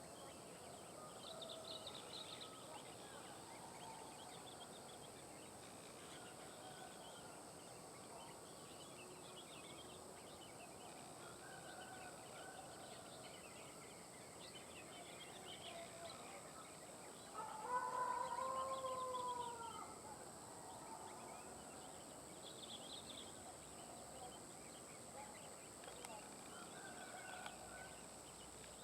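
Faint, scattered chirps of a wild sooty-headed bulbul and other small birds over a steady high-pitched tone. About seventeen seconds in comes a louder, drawn-out call of about two seconds that rises and then falls in pitch.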